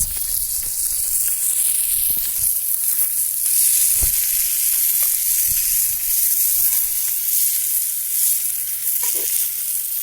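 Food sizzling steadily in a frying pan, with a few light knocks about two and four seconds in.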